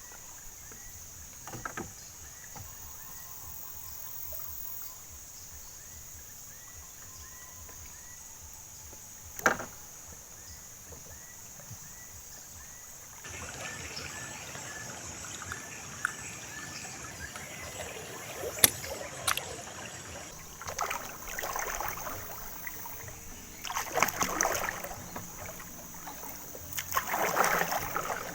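Water sloshing and splashing against a small boat, with a few sharp knocks, over a steady high insect drone and a small chirping call repeated about once a second.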